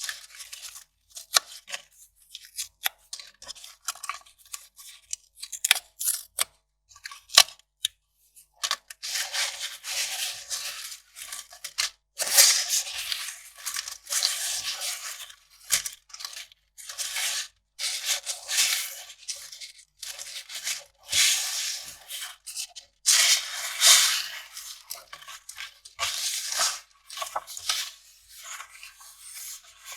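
Kraft paper being handled: short crisp crackles and snips for the first several seconds, then from about eight seconds in a run of long ripping strokes, each about a second, as the paper is torn.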